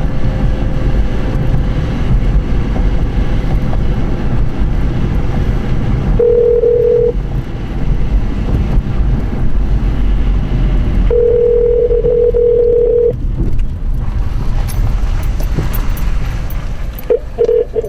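Steady low rumble of wind and a vehicle, with a phone's ringing tone sounding twice: briefly about six seconds in, then for about two seconds at eleven seconds. A few short broken beeps follow near the end, as an outgoing call rings through and connects.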